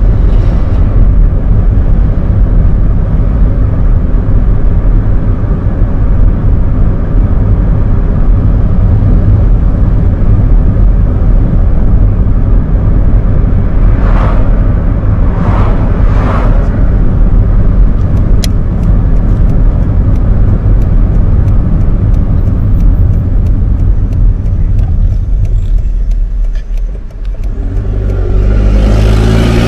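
Opel Astra G's 1.6-litre eight-valve four-cylinder petrol engine and road noise, heard from inside the cabin while cruising steadily at about 40 km/h. A few oncoming vehicles whoosh past about fourteen to sixteen seconds in. Near the end the sound dips as the car slows, then the engine climbs in pitch as it pulls away in a low gear.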